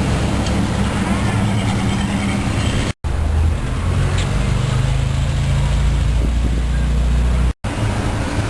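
Engines of old American cars running low and steady as they cruise slowly by, with street noise around them. The sound cuts out abruptly twice, about three seconds in and near the end, and picks up again.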